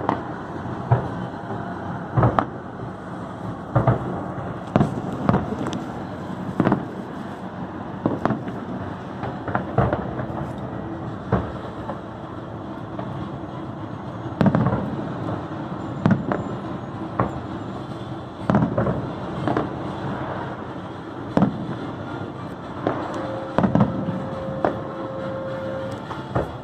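Aerial fireworks bursting in an irregular string of sharp bangs, roughly one a second with short gaps, over a continuous background rumble. Near the end a steady tone is held for about three seconds.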